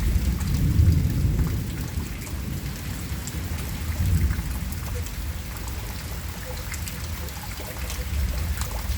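Thunderstorm: rain falling with a low rolling rumble of thunder that swells about a second in and again around four seconds.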